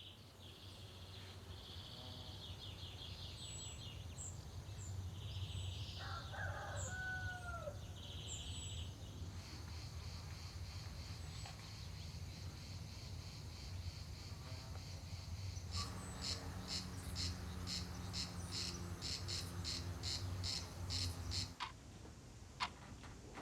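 Rural outdoor soundscape of cicadas buzzing in pulses, with a rooster crowing once about six seconds in and small birds chirping. A low steady rumble sits underneath, and near the end the cicadas pulse faster, about two or three times a second, before the sound changes to a few scattered clicks.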